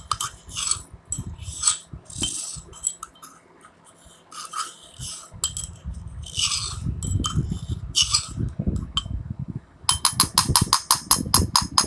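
Scraping and knocking on a container as crushed biscuit powder is emptied out of it into a bowl. About ten seconds in there is a quick run of sharp clinks, about eight a second.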